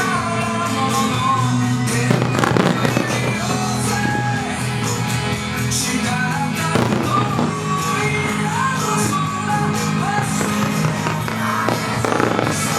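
A rock-style song with singing, with firework shells bursting at a few points over it: a heavy cluster about two seconds in, another around seven seconds, and more near the end.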